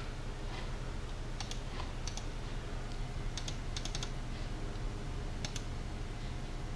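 Scattered light clicks and taps at a computer, some in quick clusters, over a steady low hum.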